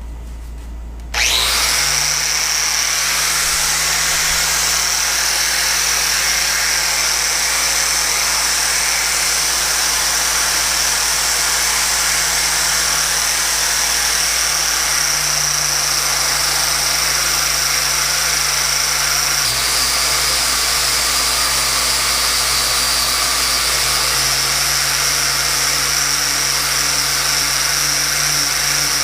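A handheld electric power tool starts about a second in and runs continuously with a steady high-pitched motor whine. The whine drops slightly in pitch about two-thirds of the way through, as the tool's load changes.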